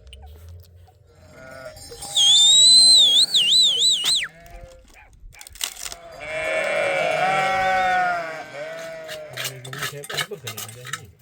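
A shrill whistle that wavers and then slides down, followed by a sheep's long bleat and a short second bleat, with scattered clinks.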